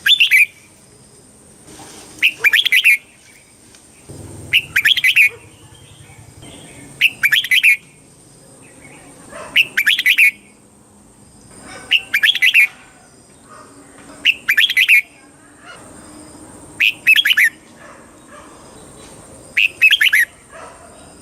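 Red-whiskered bulbul singing short, bright, whistled phrases, one about every two and a half seconds.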